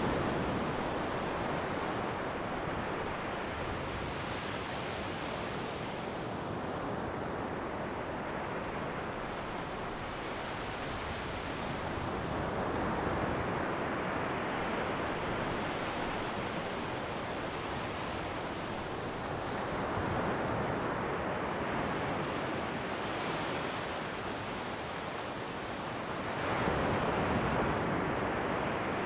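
Ocean waves breaking and washing up on a shore, the surf swelling and easing every several seconds, loudest near the end, with some wind on the microphone.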